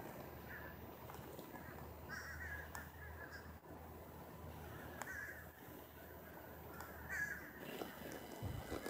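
Several short, harsh bird calls, spaced a second or more apart, over a low steady hum that cuts off near the end.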